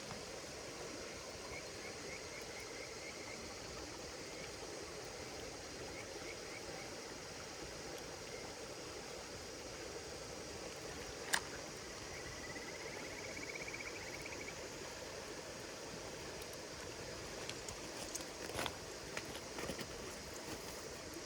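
Campfire crackling, with one sharp pop about eleven seconds in and a few smaller crackles near the end, over insects chirring steadily and trilling in short pulsed bursts.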